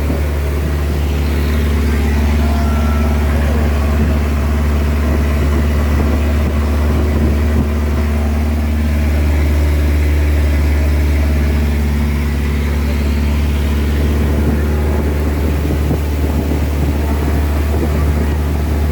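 Motorboat engine running steadily with a deep, even hum, heard from on board.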